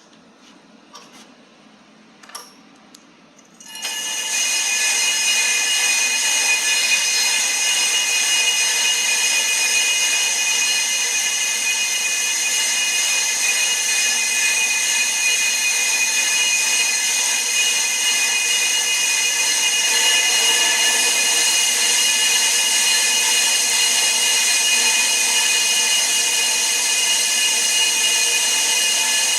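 Brake disc resurfacing lathe cutting a brake rotor, starting abruptly about four seconds in after a few faint clicks, then running steadily with a high-pitched whine over a hiss.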